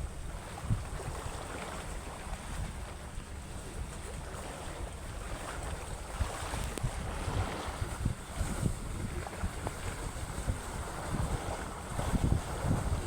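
Wind buffeting the microphone in gusts over a steady rush of sea water, the gusts strongest near the end.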